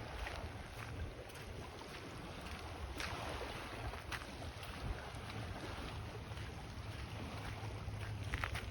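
Wind buffeting the microphone as a low rumble over a steady wash of sea along the shore, with a few faint clicks.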